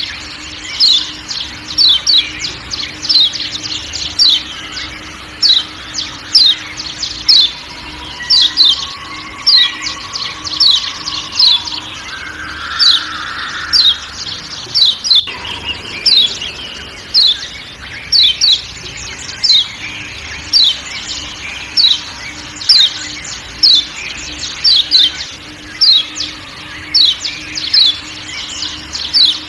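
Yellow white-eye (kecial kuning, a Lombok Zosterops) giving short, sharp, downward-sweeping 'ciak' calls over and over, about two a second, with a faint forest background beneath.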